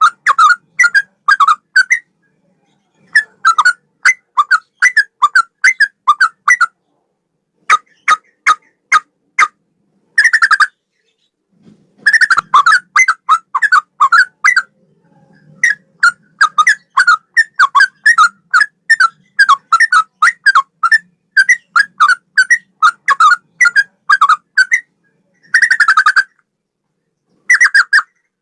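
Yellow-vented bulbul (trucukan) singing in a cucak rowo (straw-headed bulbul) style: loud phrases of quick, repeated whistled notes, about three a second, broken by short pauses of about a second.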